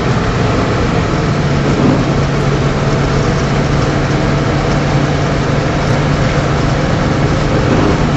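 Vehicle engine running with a steady low hum under a loud, continuous rushing noise.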